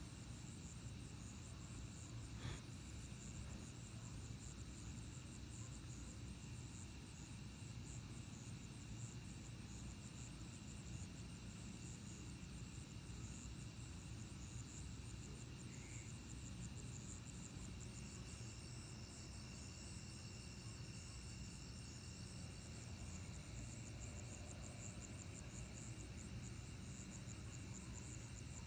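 Night chorus of crickets and other insects: a steady, finely pulsing trill at several high pitches over a faint low rumble.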